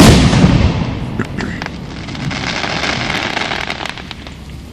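An aerial firework shell bursting with one loud bang at the start. A rumble follows and fades away over the next few seconds, with scattered small pops along the way.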